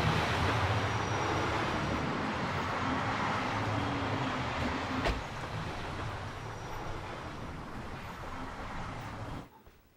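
Train running: a steady rumble that eases off slowly, with a single sharp knock about five seconds in. The sound cuts off abruptly near the end.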